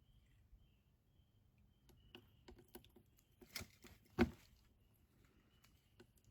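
Scattered small clicks and knocks from about two seconds in, building to one louder, dull thump just after four seconds, over a faint, steady high whine.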